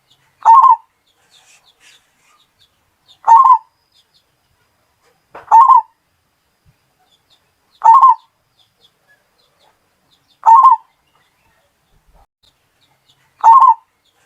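Zebra dove (perkutut) cooing: six short phrases, each about a third of a second, repeated evenly about every two and a half seconds.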